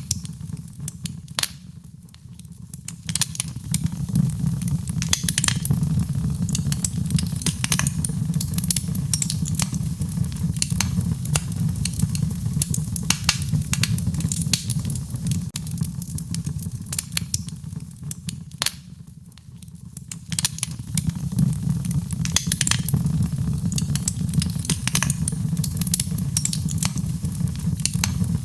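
Fireplace fire crackling, with frequent sharp pops and snaps over a low steady rumble of burning. The rumble and crackle ease off briefly twice, about two seconds in and again about two-thirds of the way through.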